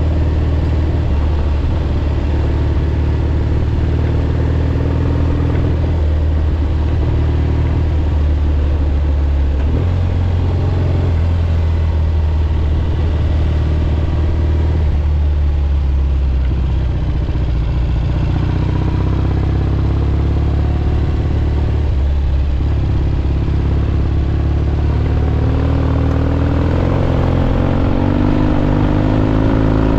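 1967 Triumph Bonneville T120's 650 cc parallel-twin engine running under way on a ride, heard from a helmet camera. Its pitch shifts several times with throttle changes and climbs near the end.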